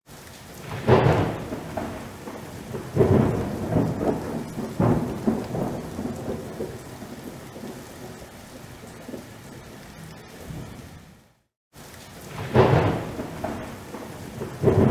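Thunder pealing several times over steady rain, each peal loud and rolling. The sound breaks off to silence for a moment about eleven seconds in.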